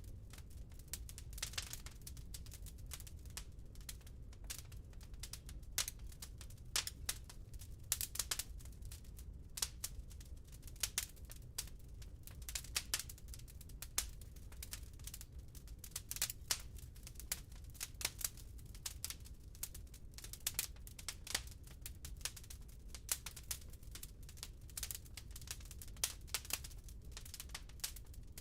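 Wood fire crackling in a fireplace: irregular sharp pops and snaps, some louder than others, over a low steady background.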